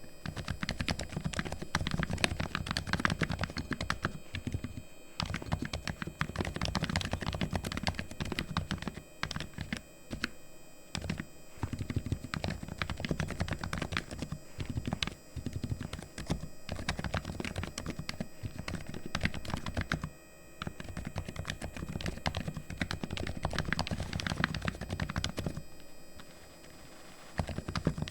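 Typing on a Razer Huntsman V2 Linear keyboard whose linear optical switches are fully lubricated: fast, continuous runs of keystrokes with a few short pauses.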